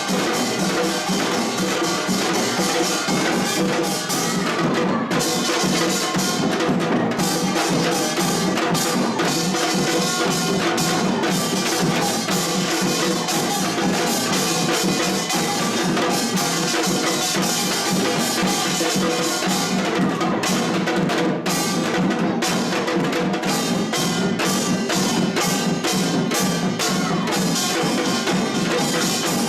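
Korean pungmul folk percussion ensemble playing: dense, steady drumming and percussion strikes without a break.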